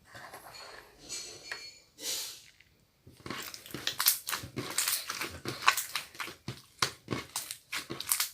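Slime being squeezed and pressed by hand, giving a soft rustle at first, then dense crackling clicks and pops from about three seconds in.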